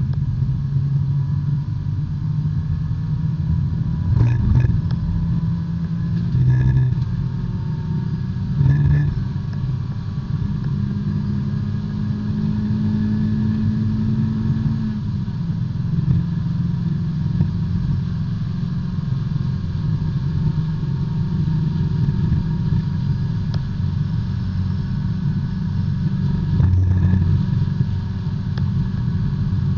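Engine of a B-Spec racing subcompact heard from inside the cabin, running hard under load. Its pitch holds steady for a few seconds near the middle, and brief sharp knocks come about four, seven and nine seconds in and again near the end.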